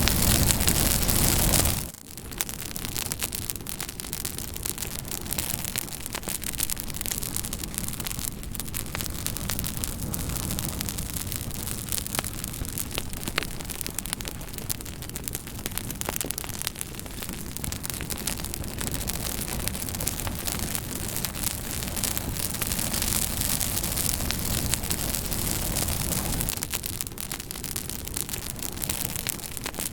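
Campfire crackling: a steady bed of small pops and snaps from burning wood. It opens with a louder rushing hiss that cuts off abruptly about two seconds in.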